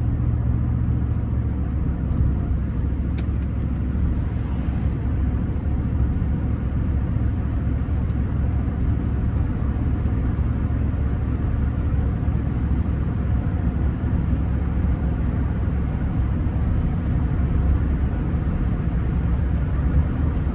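Steady engine and road noise of a Rolls-Royce Silver Spirit III driving along, heard from inside the cabin, with its 6.75-litre V8 running evenly at a cruise.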